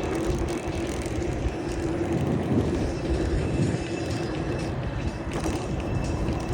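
Steady rush of wind and road noise while riding a mountain bike, with a steady low hum that fades out about three seconds in.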